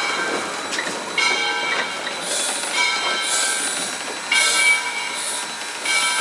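Southern Railway #630, an Alco 2-8-0 steam locomotive, rolling slowly, heard from the cab. A high metallic squeal with hiss comes back at the same pitch about every second and a half.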